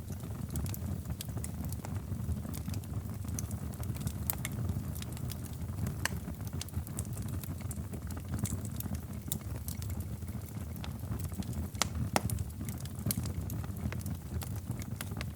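Wood fire crackling in a fireplace: a steady low rumble of burning with frequent sharp pops and snaps, a few louder pops about six and twelve seconds in.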